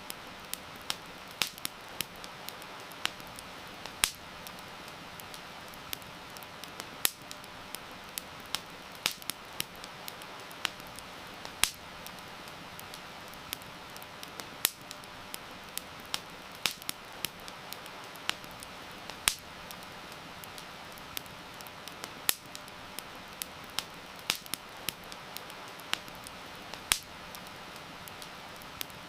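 Wood campfire crackling, with frequent sharp pops at irregular intervals, a few of them much louder than the rest, over a steady hiss of heavy rain.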